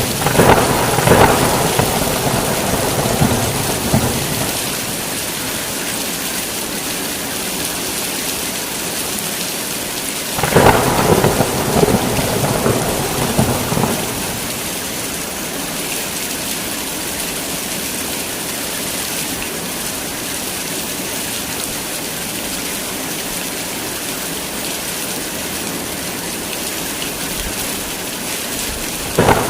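Steady heavy rain with thunder: one rumbling peal at the start lasting about four seconds, another about ten seconds in, and a brief crack near the end.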